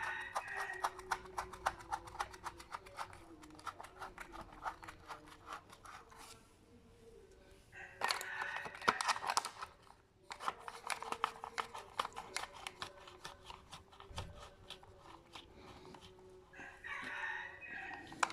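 Fast runs of small clicks, several a second, from hand tools working on a scooter engine as it is reassembled, stopping briefly twice. Three times, at the start, about eight seconds in and near the end, a louder call about a second long rises over the clicking.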